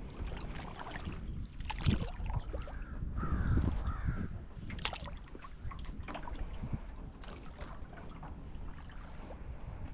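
Canoe paddling on a lake: water trickling and splashing off the paddle, with a couple of sharp knocks and a steady low rumble. A bird gives a short run of calls about three seconds in.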